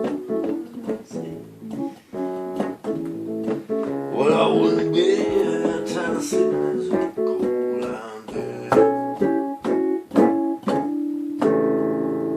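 Acoustic guitar playing the instrumental ending of a blues song, picked single notes and chords, closing on a chord struck about eleven seconds in and left ringing.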